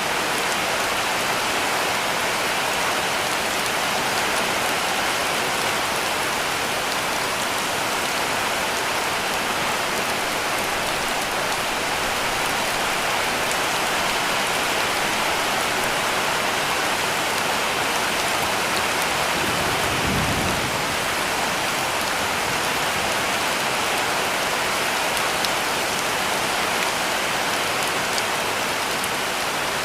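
Heavy rain falling steadily on a roof, an even hiss with no letup. About two-thirds of the way through a brief low rumble rises under it.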